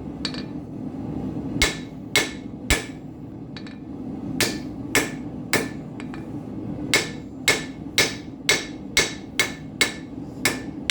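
Hand hammer striking hot steel on an anvil, about fifteen ringing blows in three runs, the last run quickening to about two a second, as the steel is drawn out. A steady low roar from the forge runs beneath.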